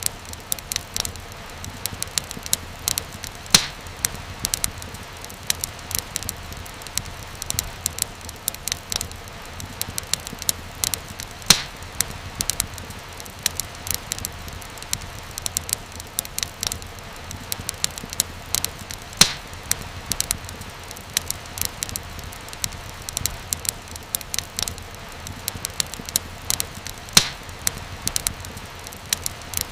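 Fire crackling in a fireplace, with a steady stream of small pops over a low rumble. A few louder snaps come every several seconds.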